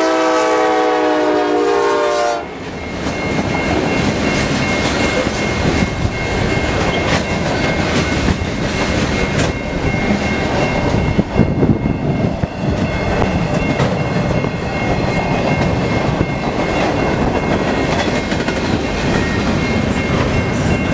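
A CN freight locomotive's horn sounds a chord of several notes at once and cuts off about two and a half seconds in. A local freight train then rolls steadily through the grade crossing, its wheels clicking over the rail joints.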